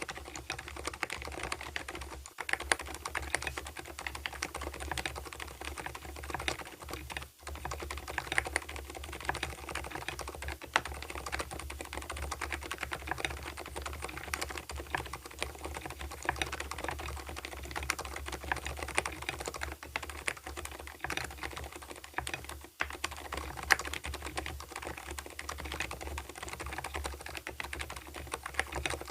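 Continuous fast typing on an Mstone Purpler mechanical keyboard with lubed silent Milky 38 g switches and PBT MA-profile keycaps: a dense stream of soft keystrokes with a few short pauses.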